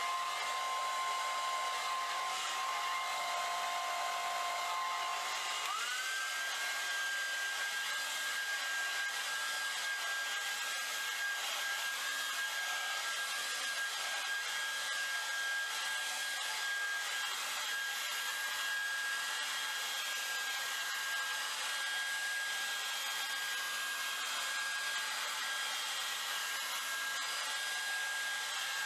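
Handheld blow dryer running steadily, a rushing of air with a motor whine. About six seconds in, the whine steps up to a higher pitch and then holds.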